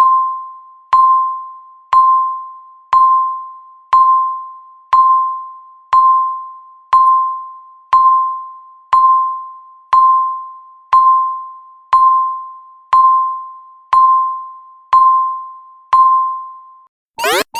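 Countdown timer's electronic beep, a single ringing tone that fades after each strike, repeating once a second as the count ticks down. Just before the end the timer hits zero and the alarm starts, a fast run of rising electronic sweeps.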